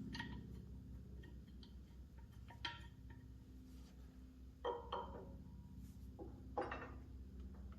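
A few faint metallic clinks and knocks of hand tools being handled on a hydraulic cylinder, spaced a second or two apart, over a steady low hum.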